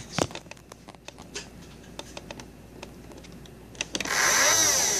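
Light clicks and taps of a toy blaster being handled, then about four seconds in a loud whine from a small electric motor starts, rising and falling in pitch: typical of a motorized Nerf blaster's flywheels revving up.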